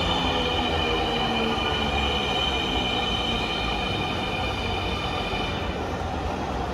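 Electric Dhaka Metro train running along the platform, a steady high whine over a low rumble of wheels on the rails; the whine fades about five and a half seconds in.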